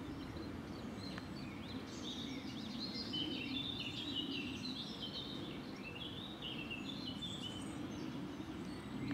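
A small songbird singing a long run of quick, high chirping phrases, starting about a second and a half in, over steady low outdoor background noise.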